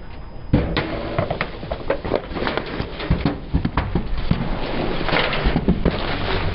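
Dense, irregular crackling and snapping of crunchy material being crushed, starting about half a second in.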